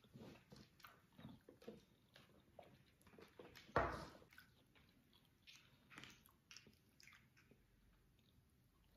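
Faint chewing of chicken nuggets, with small mouth clicks throughout and one louder knock about four seconds in.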